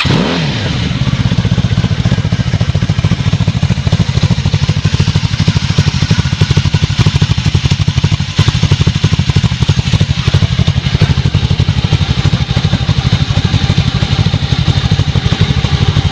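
1994 Honda Magna's V4 engine through a Cobra aftermarket exhaust, catching at the very start and then idling steadily with a fast, even exhaust pulse. It is a cold start and the idle sits a little low.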